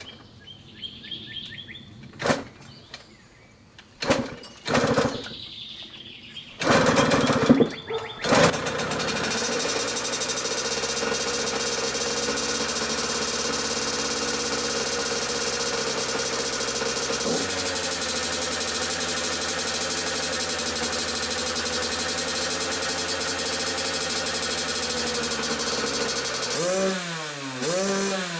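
Yamaha YZ85 two-stroke single-cylinder dirt bike engine being kick-started after an engine rebuild: a few short bursts, then it catches about eight seconds in and runs steadily on a hand-held choke. Near the end the throttle is blipped several times, the engine note rising and falling with each blip.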